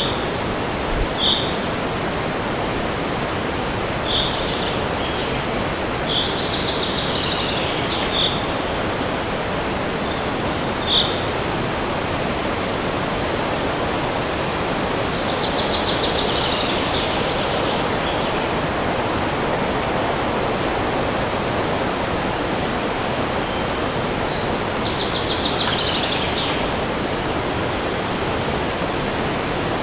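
Steady wind rushing through forest trees, with birds calling over it: short single chirps every few seconds and three longer trilling phrases, about seven, sixteen and twenty-five seconds in.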